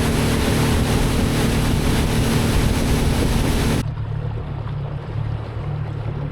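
Motorboat running under way: a loud rush of wind and water over a steady engine hum. It cuts off abruptly about four seconds in, leaving a quieter low rumble.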